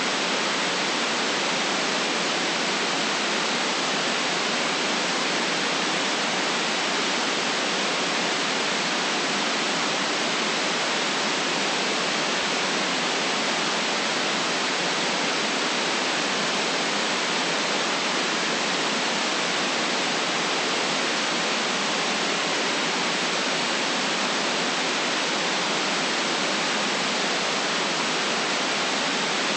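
Steady, unchanging white-noise hiss, even in level throughout.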